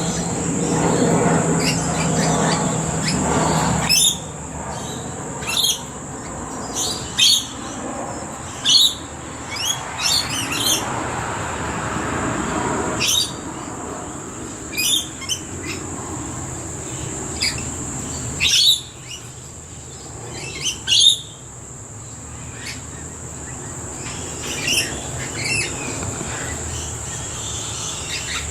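Birds of a backyard flock that includes rainbow lorikeets calling in short, shrill screeches every second or two, over a steady high whine. A low rumble in the first few seconds stops about four seconds in.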